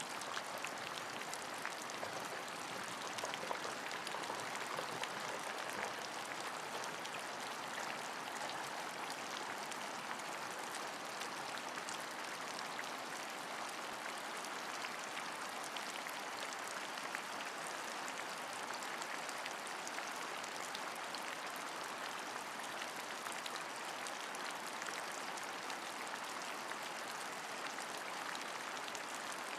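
Steady rain: an even hiss of falling water dotted with many small drop ticks, unchanging throughout.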